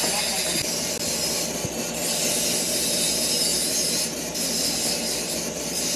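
Metalworking machinery running in a gear factory: a steady, grinding, hissing noise with a few steady whining tones, the hiss dipping briefly twice.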